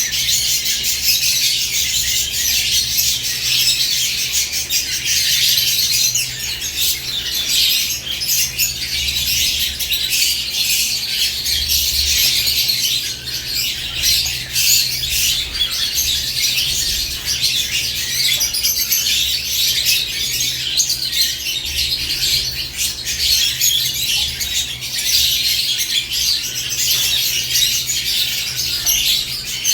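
Caged lovebirds chirping and squawking without pause, many shrill calls overlapping, over a steady low hum.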